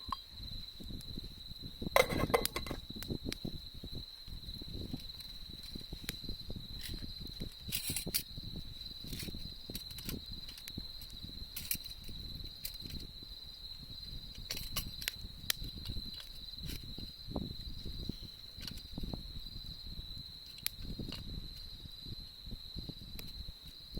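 Wood campfire crackling and popping, with a louder cluster of pops about two seconds in, over a steady high-pitched trill of autumn insects.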